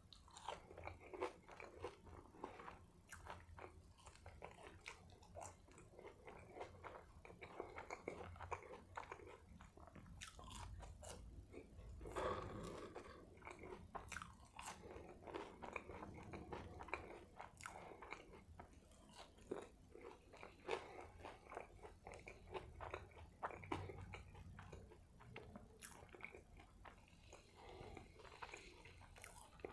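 A person chewing and biting into a bacon cheeseburger, with a steady run of small wet clicks and crunches from the mouth.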